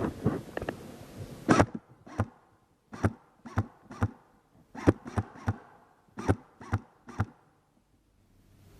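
An airsoft gun firing single shots: about a dozen sharp cracks at an irregular pace over some six seconds, ending before the last second.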